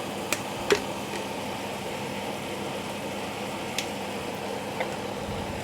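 Chicken frying in a pan with a steady sizzle, broken by a few sharp clicks: two in the first second and two more later on.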